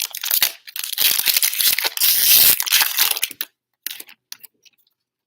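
Trading-card pack wrapper being torn open and crinkled by hand, a dense crackle that stops about three and a half seconds in, followed by a few light clicks.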